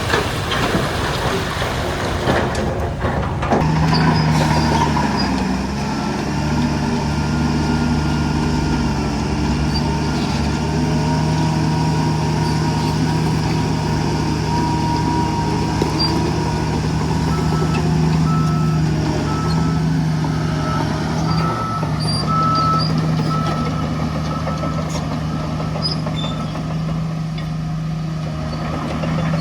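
Heavy diesel earthmoving machinery running steadily, the engine note settling in a few seconds in. A reversing alarm beeps in a steady row partway through, typical of a dump truck backing up.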